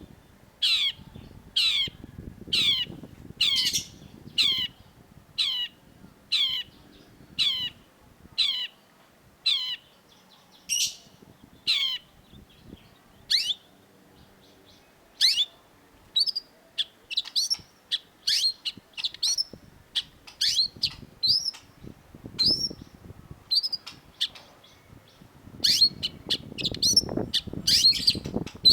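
Long-tailed shrike calling: a run of sharp, steeply falling notes, a little more than one a second, then after a short pause shorter, higher notes that come faster. A low rustling joins in near the end.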